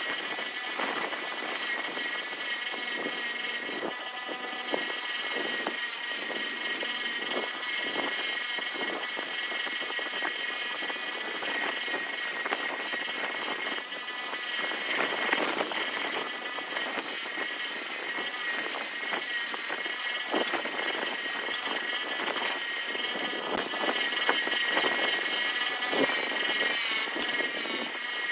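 A motor running steadily with a high whine, with irregular rough scraping noise over it.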